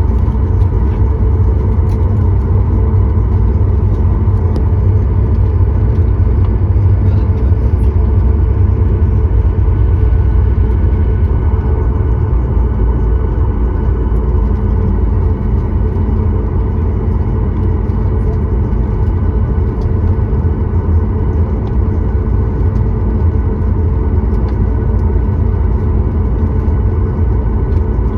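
Steady cabin noise inside a Boeing 737-9 MAX: a constant low rumble of the jet's engines and airflow, with faint steady tones above it.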